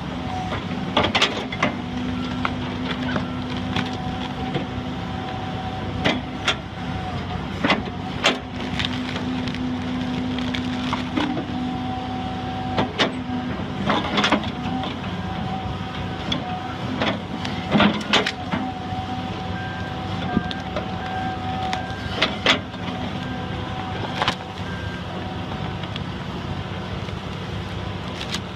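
A heavy tree-felling machine's engine running steadily, with a whine that comes and goes and a dozen or so sharp knocks and cracks at irregular moments.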